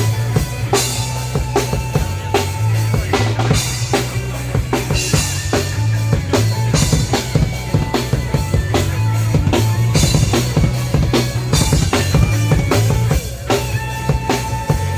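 Live band music from street musicians: a drum kit keeping a steady beat with bass drum, snare and rimshots over a heavy bass line, without singing.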